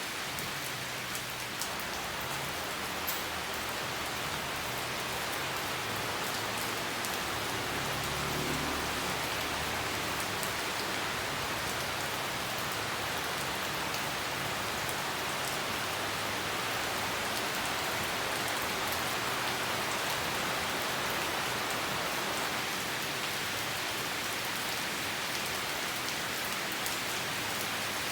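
Steady rain falling and pattering on leafy plants, an even hiss without a break, with a faint low hum underneath for roughly the first ten seconds.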